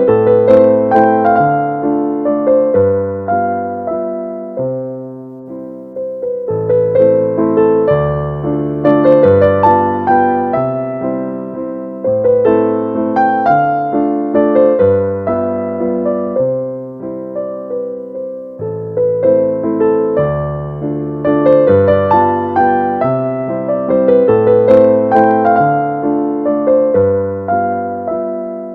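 Background music: a gentle piano-style keyboard melody over a slow bass line, its notes struck and fading.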